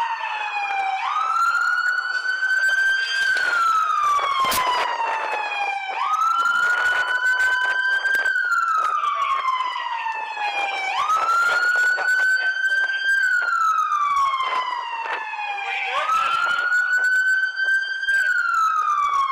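Police car siren sounding in slow wail mode: each cycle jumps up in pitch, holds for a couple of seconds, then slides slowly down, repeating about every five seconds.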